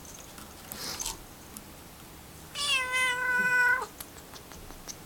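A black cat meowing once: a single drawn-out meow about a second long, held steady after a brief dip at its start and ending abruptly.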